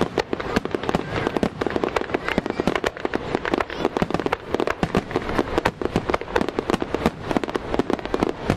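Marugo starmine fireworks barrage: aerial shells bursting in rapid succession, a dense run of bangs and crackles many times a second without a break.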